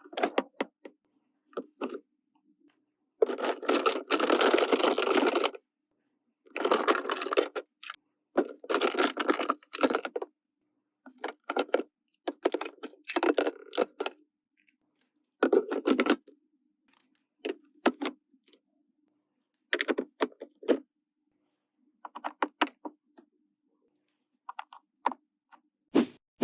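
Unboxing handling sounds: irregular clicks and taps of small plastic toy pieces, broken by several stretches of a second or two of rustling packaging.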